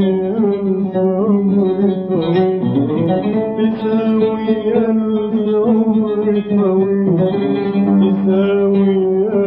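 Arabic tarab song: a man's voice holds a long, wavering sung line over plucked oud accompaniment.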